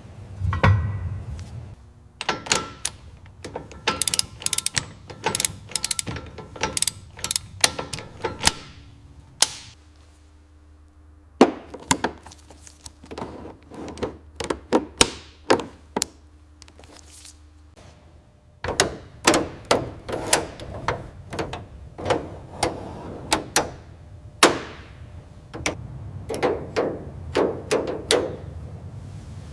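Hand tools working on metal parts of the car: a run of sharp, irregular clicks and knocks, some of them ringing briefly, with a quieter spell about ten seconds in and a busier stretch from about nineteen seconds on.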